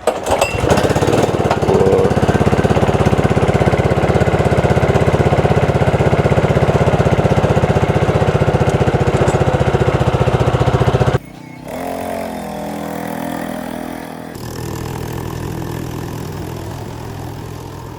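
Petrol go-kart engine running loud and steady, heard close up, with a fast even pulse. About eleven seconds in it cuts off suddenly to quieter engine noise that rises and falls.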